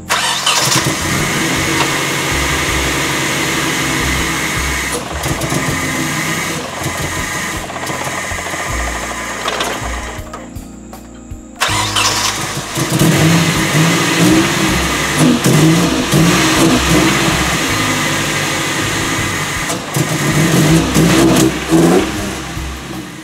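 Nissan 240SX engine starting and running, dropping out briefly about ten seconds in, then running again and revved up and down several times. The owner says it sounds like something else is wrong with the car.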